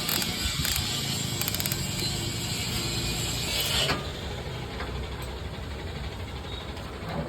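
Mechanical clatter and clicking from work on a tractor engine over a steady low hum. The higher, noisier clatter cuts off suddenly about four seconds in.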